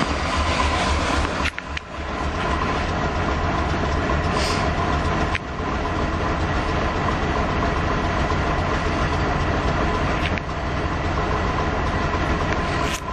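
A 1977 Ford E100 van's 300 cubic-inch straight-six running steadily at idle just after a cold start in freezing weather, a low pulsing rumble. The sound drops out briefly about a second and a half, five and ten seconds in.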